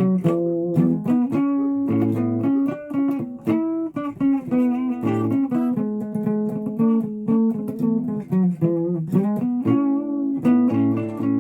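Guitar played solo: a run of picked single notes and short chords, with low bass notes struck now and then.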